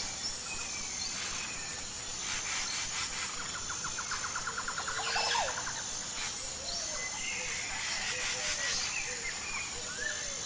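Several wild birds chirping and calling over a steady high drone of insects, with a rapid trill of about ten notes a second near the middle.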